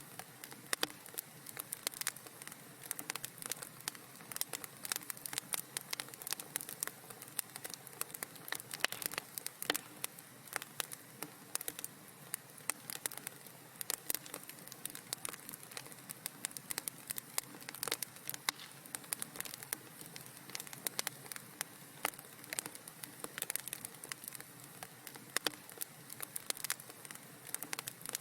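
Wood fire crackling in a fireplace: a steady soft hiss with dense, irregular sharp pops and snaps.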